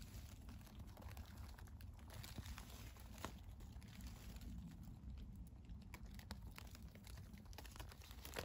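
Faint rustling and small crackles of leaves and twigs being handled over a steady low rumble.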